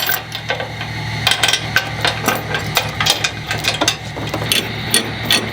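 Steel tie-down chain clinking and clanking in quick, irregular metallic knocks while it is pulled and hooked to secure a tractor on a trailer. A steady low hum runs underneath.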